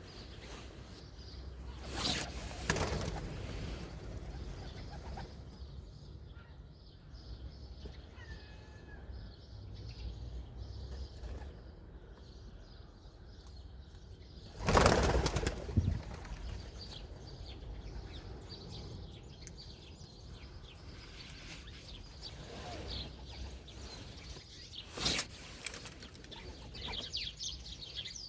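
Pigeons' wings flapping in three short bursts, the loudest and longest about halfway through, over a steady low city rumble.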